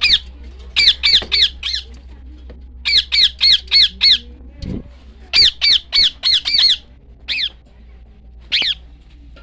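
A bird squawking: harsh, loud calls in quick runs of four to six, about three a second, separated by short pauses, then a couple of single calls near the end.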